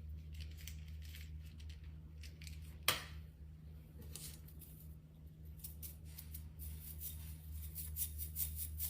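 Scissors snipping during crafting, with one sharp click about three seconds in and a faster run of snips near the end, over a steady low hum.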